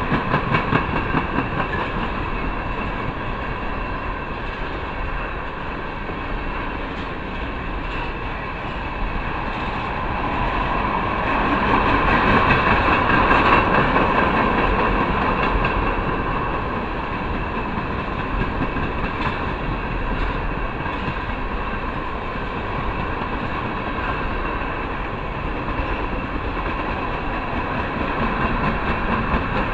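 Tank cars of a freight ethanol train rolling past, their wheels making a continuous rumble and ring on the rails, with occasional clacks. It swells louder for a few seconds about halfway through, then settles back to a steady roll.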